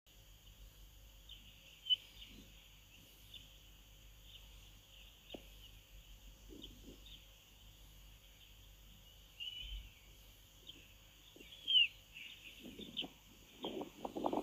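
Faint chirping of small birds, short high calls scattered throughout over a steady hiss from the nest camera's outdoor microphone. A few lower knocking or scraping sounds come in near the end.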